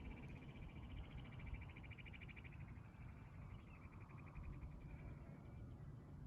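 A small animal's rapid, high-pitched trill, evenly pulsed and slowly falling in pitch, fading out about three-quarters of the way through, over a low rumble of wind or handling.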